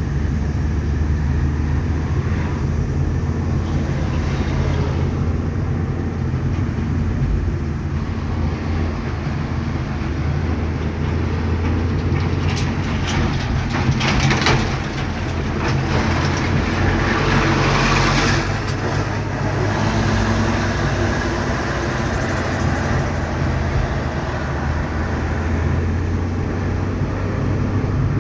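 Ocean surf with a steady low rumble; about halfway through, a louder hissing wash of a wave rises and fades.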